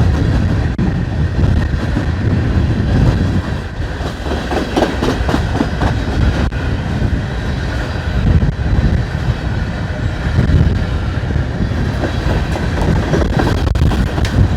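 Freight train of empty cars rolling steadily past at trackside: a continuous rumble of steel wheels on rail, with clicks as the wheels cross the rail joints.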